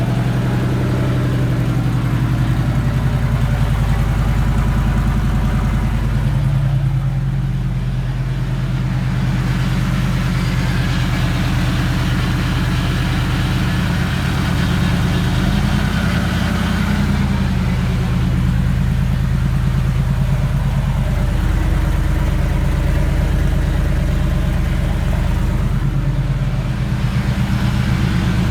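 Supercharged 5.4-litre two-valve V8 of a 2000 Ford F-150 running at idle with no exhaust fitted, so it is very loud and unmuffled. It runs a bit rough on its first start after the build, and its engine speed shifts slightly a few times.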